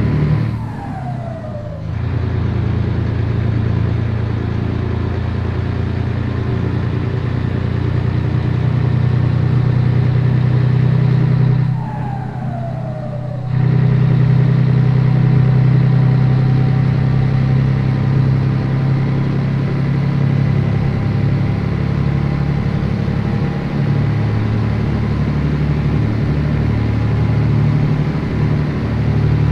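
Scania 113 truck's diesel engine running steadily under load. Twice, about a second in and again about twelve seconds in, the engine note falls away briefly with a falling pitch and then picks up again, as on a gear change.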